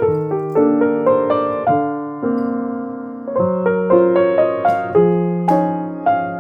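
Soft instrumental piano music: gentle chords and single notes struck and left to fade, changing every second or so.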